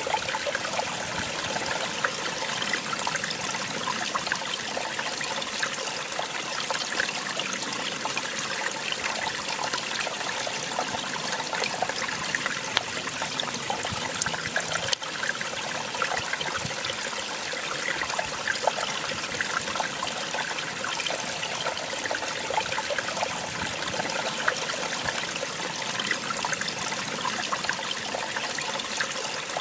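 Small waterfall splashing and trickling steadily, a constant rush of falling water with fine splashes.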